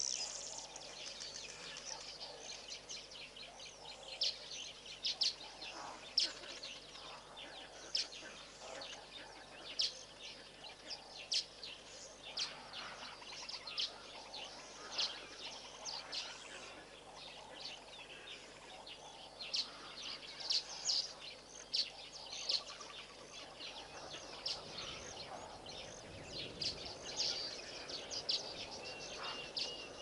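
Wild birds chirping in short, high calls, repeating every second or so over a faint steady hiss of open-air ambience, with a brief held whistle near the end.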